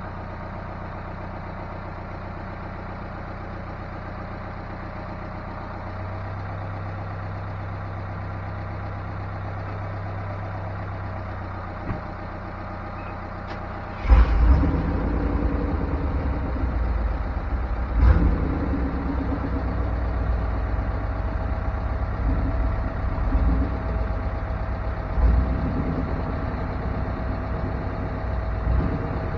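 An engine running steadily at idle. About halfway in it turns suddenly louder and heavier with a sharp knock, then runs unevenly with low pulsing and another knock a few seconds later, as if working under load.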